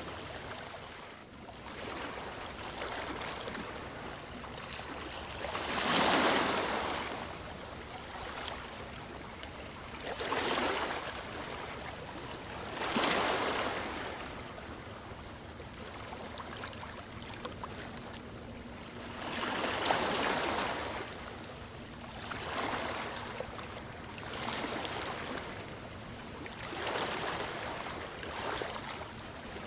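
Ocean waves washing in: a steady rush of water with seven surges of surf that swell and fade every few seconds.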